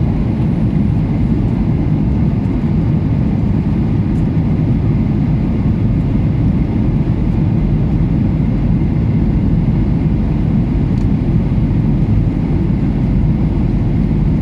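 Steady low rumble of a Malaysia Airlines airliner in flight on approach to landing: engine and airflow noise, even and unbroken.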